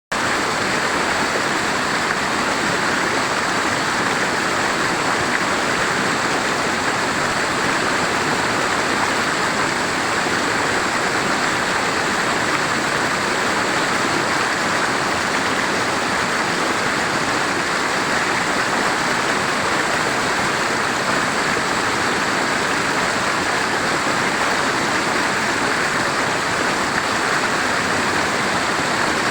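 A fast-flowing mountain river rushing over rocks, a steady, loud roar of water that does not change.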